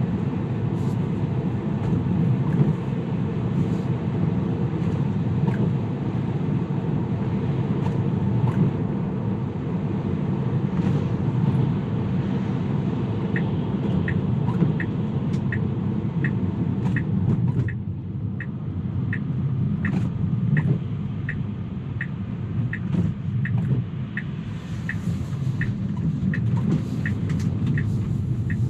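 Inside a Tesla on a wet road: steady road and tyre rumble. About halfway through, the turn-signal indicator starts ticking about twice a second, signalling a turn.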